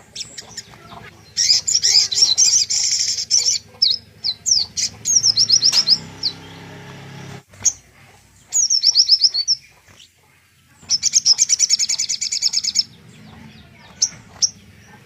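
A recorded songbird singing in phrases: very fast high trills, about a second and a half each, alternating with quick runs of down-slurred whistles, with short pauses between phrases. It is a masteran song recording of the kind played to tutor white-rumped shamas.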